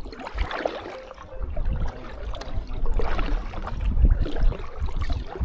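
Kayak paddling: the paddle blades splash and water trickles off them, while gusty wind rumbles on the microphone.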